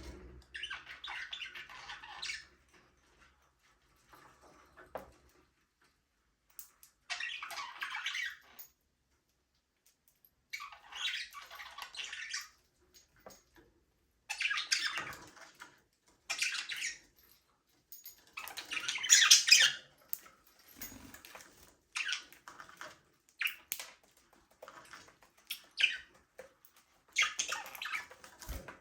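Budgerigars chirping and warbling in bursts of high chatter lasting a second or two, with short pauses between them; the bursts come shorter and more often in the second half.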